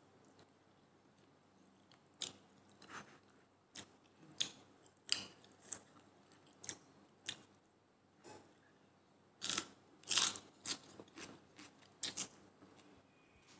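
Close eating sounds: chewing with short, sharp mouth clicks as rice is eaten by hand, in scattered bursts, with a couple of longer, louder ones a little past the middle.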